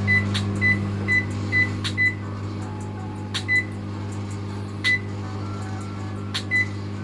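Microwave oven running, a steady low hum while it cooks.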